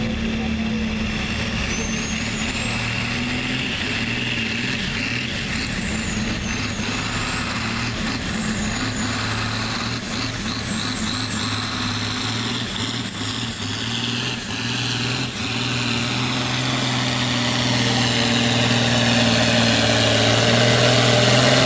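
Turbocharged diesel farm pulling tractor running under heavy load on a pull, its engine note steady with a high turbo whistle that rises and falls. The whistle climbs to its highest and the run gets louder over the last few seconds.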